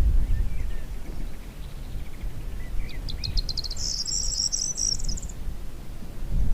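Songbird calling over a low wind rumble: faint chirps at first, then a run of quickening notes about halfway through that turns into a high buzzy trill lasting about a second and a half.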